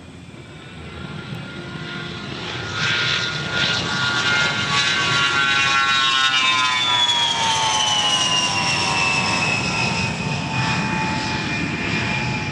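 An aircraft flying past: its engine noise swells, and a high whine with several tones falls steadily in pitch as it passes and moves away.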